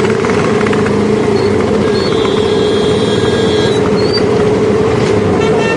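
Motorcycle running steadily on the road, its engine note under a constant rush of noise. A thin high whine comes in about two seconds in and stops under two seconds later.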